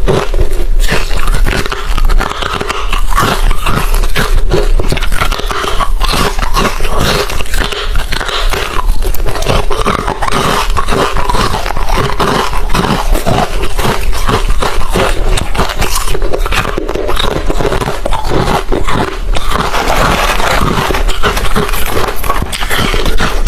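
Close-miked chewing of hard refrozen crushed ice: a dense, continuous run of crisp crunches and cracks as the ice is bitten and ground between the teeth.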